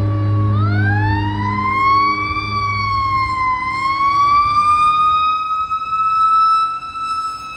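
Fire apparatus's Federal Q mechanical siren winding up: a rising wail that climbs, dips briefly past the middle, then climbs again and holds its high pitch. A low steady drone underneath fades out about halfway, and the whole sound drops in loudness near the end.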